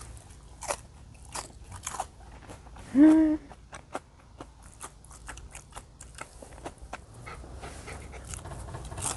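Close-up mouth sounds of someone chewing and biting a pan-fried pig-blood and buckwheat pancake, with many small wet clicks. About three seconds in there is one short voiced sound, the loudest moment.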